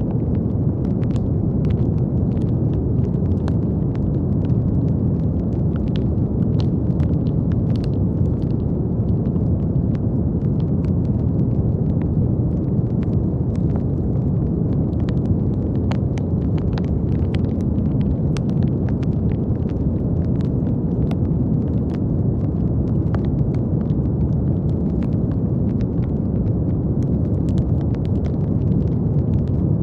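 Brown noise: a steady, deep, even rush of sound, strongest in the low end, with scattered faint clicks above it.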